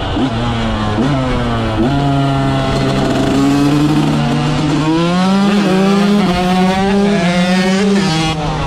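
KTM 125 SX two-stroke single-cylinder motocross engine with an FMF exhaust, ridden under throttle: the revs rise and fall sharply a few times in the first two seconds, then hold a steady note that steps up about five seconds in and drops back near the end.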